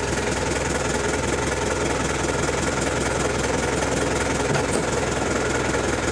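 A motor engine running steadily, a constant drone with a low hum.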